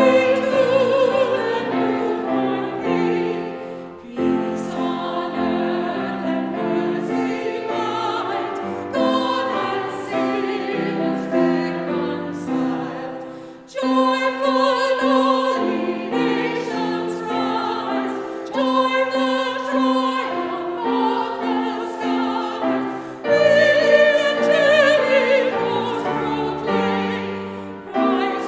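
Classically trained female voices singing a Christmas medley in operatic style with vibrato, over piano accompaniment. Long held phrases, with brief pauses for breath between them.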